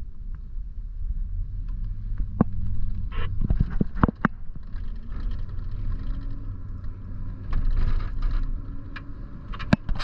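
A vehicle running with a steady low rumble, with scattered clicks and knocks over it.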